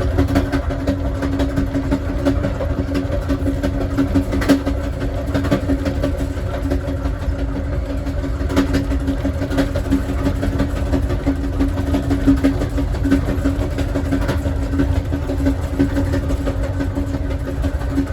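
Steady ride noise of a moving passenger train heard from its last car: a continuous low rumble of the wheels on the rails with a steady hum, and a few scattered light clicks.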